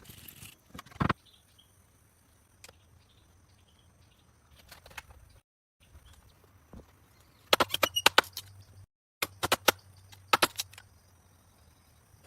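Quick clusters of sharp clicks and knocks, one about seven and a half seconds in and another about nine and a half seconds in, over quiet background.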